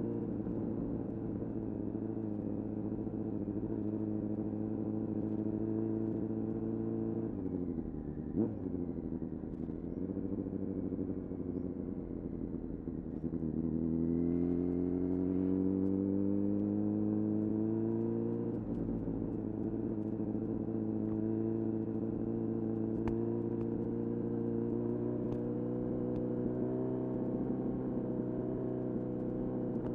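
2000 Honda CBR-929RR Fireblade's inline-four engine through an Erion full racing exhaust, running at a steady pace before the revs fall about seven seconds in, with a sharp click a second later. From about thirteen seconds the note climbs under acceleration until a gear change drops it near nineteen seconds, after which it holds steady.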